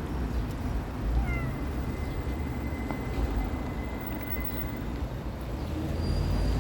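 Street cat meowing over a steady low rumble of street background noise.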